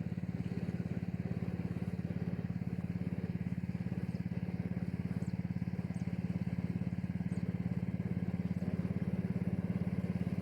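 An engine running steadily at an even speed, a constant low pulsing drone.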